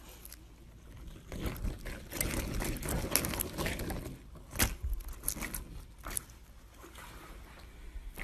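Slime being worked by hand, making a dense run of small wet crackles and clicks, then a sharp pop and a few scattered pops before it quietens.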